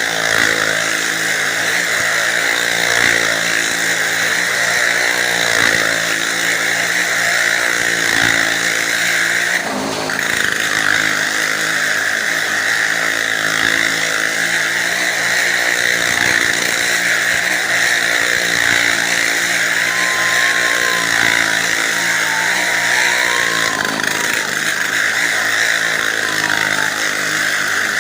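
Motorcycle engine running continuously at high revs, its pitch rising and falling in waves as it circles a wall-of-death well, with a brief drop about ten seconds in.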